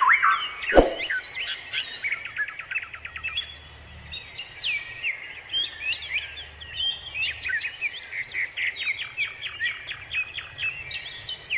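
Songbirds chirping and trilling, many quick calls overlapping, with one sharp click about a second in.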